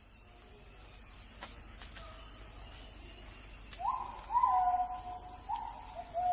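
Steady high insect drone, with a bird calling four times in the second half: clear notes that sweep up quickly, then hold and sag slightly in pitch.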